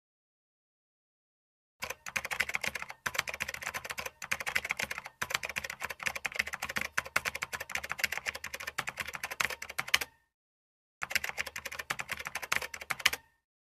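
Typing sound effect: rapid keystroke clicks, starting about two seconds in, stopping for about a second near ten seconds, then resuming for about two seconds more.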